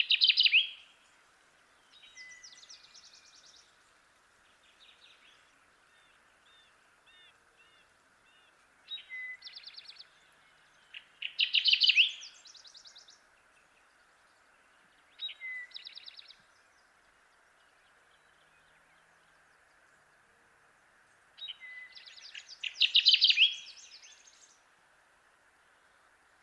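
Kirtland's warbler singing: short, loud songs repeated every few seconds, with fainter bird notes in between over a steady background hiss.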